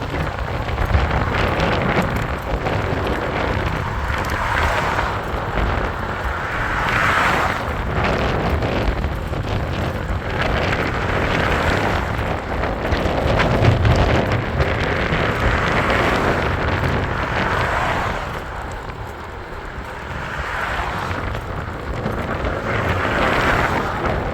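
Wind buffeting the microphone and road noise while riding an e-bike: a steady low rumble under a hiss that swells and fades every few seconds.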